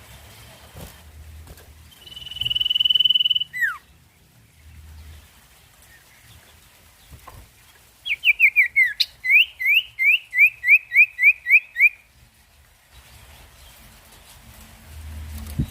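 Songbird singing: one long steady whistle that ends in a quick drop in pitch. Then, after a pause, a rapid run of about fifteen clear rising notes, about four a second.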